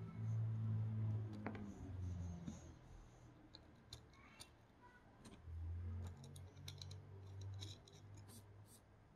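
Small parts and tools of a Creality Sprite 3D-printer extruder handled during disassembly and reassembly: scattered light clicks and taps, with a low hum that comes and goes twice.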